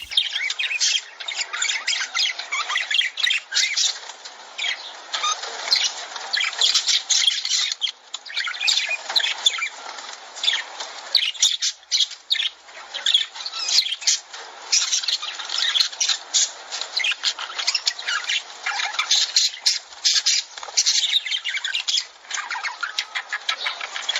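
A flock of lovebirds chattering and screeching: a dense, unbroken run of sharp chirps and squawks.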